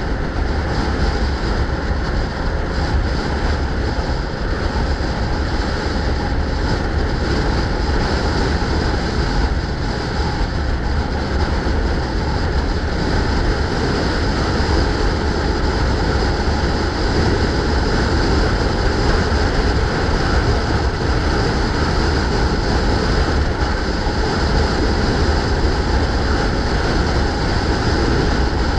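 Steady wind buffeting the microphone, heavy and low, mixed with road noise while riding a bike.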